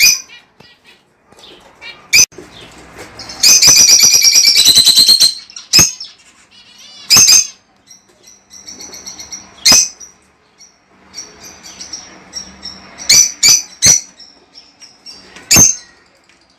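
Rosy-faced lovebirds calling: loud, sharp, shrill shrieks every second or two, with a fast chattering run of about ten calls a second some four seconds in, and softer twittering between.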